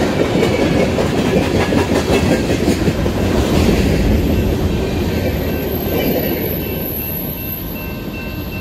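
Freight train cars rolling past on steel wheels, clattering and rattling over the rails, fading as the last cars go by about two thirds of the way in. A steady high tone comes in as the rattle dies down.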